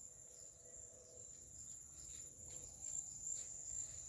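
Insects trilling in a steady, high-pitched, unbroken tone over faint outdoor background noise.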